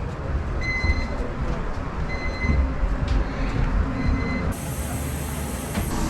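Short electronic beeps, about one every one and a half seconds, over a steady low rumble of airport boarding-area noise; the background changes abruptly about three quarters of the way through.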